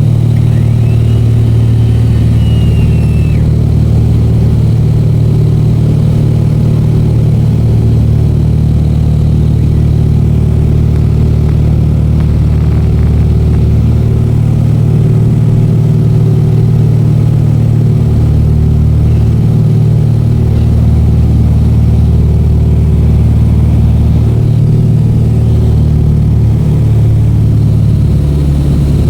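Propeller aircraft's engines droning steadily, heard from inside the cabin in flight: a loud, even low hum with a slow waver in its deepest tone.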